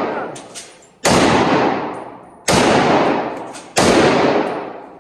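Three gunshots fired at a shooting range, spaced a little over a second apart, each followed by a long echoing decay.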